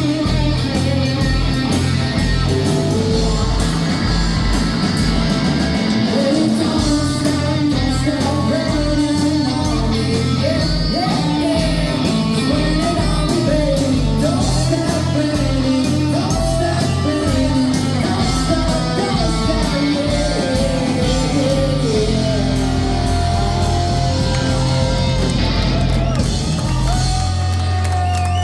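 Live rock band playing: electric guitar, bass and drums under a sung lead vocal, in a large room. Near the end the drumming stops and a final low chord rings on.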